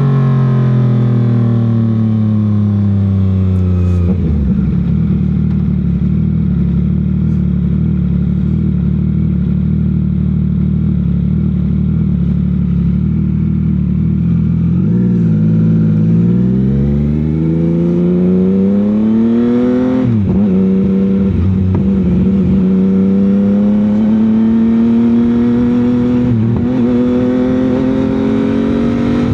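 CFMOTO 675's three-cylinder engine and exhaust on the road: the engine note falls as the bike slows, holds a steady low note for about ten seconds, then rises under acceleration. Brief dips in the note come with gear changes, and between them the bike runs at steady revs.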